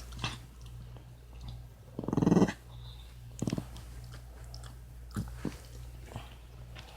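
A dog coughing: one loud, rasping hack about two seconds in, a shorter one about a second later, then a few faint snorts. The owner wonders whether it is kennel cough.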